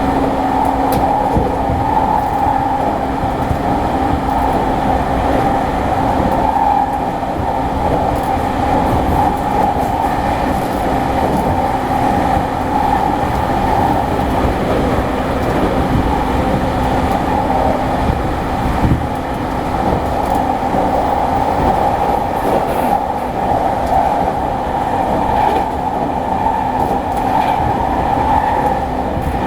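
Running noise heard inside an E217 series electric train motor car at speed: a steady rumble of wheels on rail. A steady hum sits under it and fades out about three-quarters of the way through.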